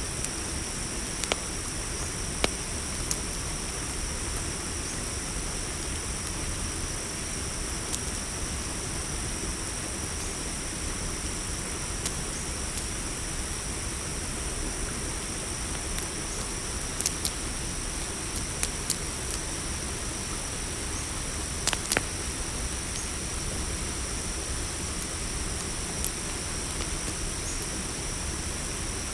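Campfire crackling with scattered sharp pops, a few close together around 17 to 19 seconds and a pair around 22 seconds in, over a steady high-pitched chorus of crickets.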